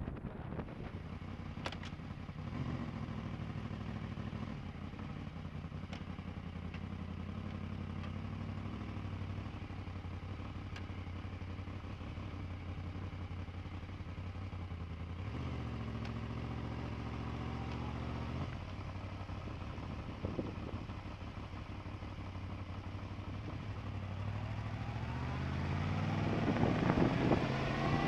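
Honda VFR800 V-TEC motorcycle's V4 engine idling steadily, then revving up with rising pitch over the last few seconds as the bike pulls away.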